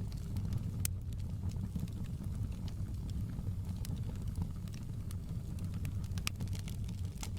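Wood fire crackling in a fireplace: scattered sharp pops and snaps, the loudest about a second in and twice near the end, over a steady low rumble.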